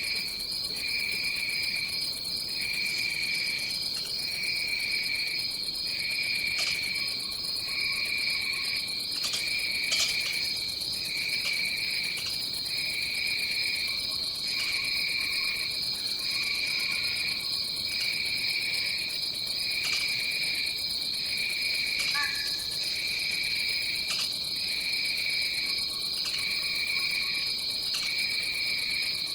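Jungle insects trilling: a steady, high, unbroken shrill drone, with a second, lower insect chorus pulsing in regular phrases broken by short pauses about once a second.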